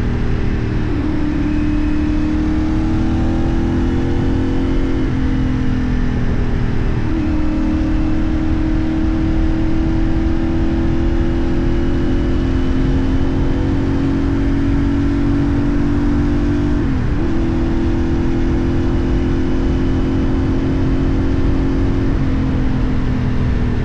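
CF Moto 450NK motorcycle's parallel-twin engine running under way, heard from the bike, with wind and road noise. Its pitch climbs slowly and then drops sharply several times.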